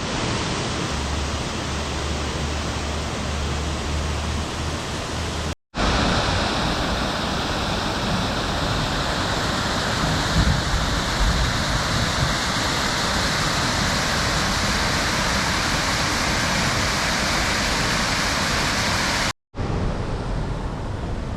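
Waterfall on a river, a steady rush of falling water that cuts out briefly twice at clip changes.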